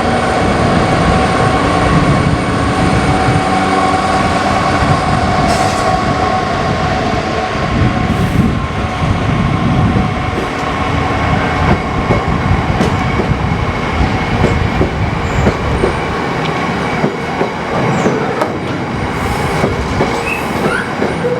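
Class 66 diesel-electric locomotive's V12 turbocharged engine working under power as it hauls a freight train away, with a steady whine over the first six seconds or so. Then the loaded wagons roll past with a continuous rumble and clicks of wheels over the rail joints.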